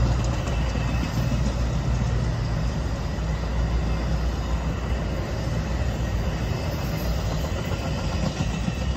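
Metra commuter train passing: bi-level passenger cars rolling by on the rails, a steady rumble that eases slightly as the end of the train goes by.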